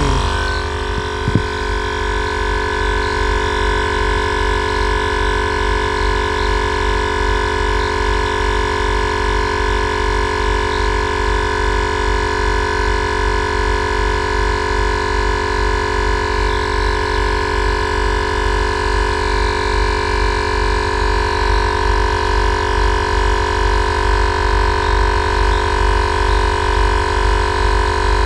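A single Viair 444C air-suspension compressor running steadily as it fills the air tank, giving a loud, even drone with a high whine and a low pulsing hum. There is a brief tick about a second in.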